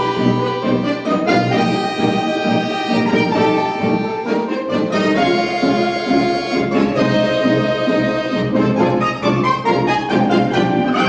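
Russian folk-instrument orchestra led by bayans and accordions playing: held chords over a pulsing low accompaniment.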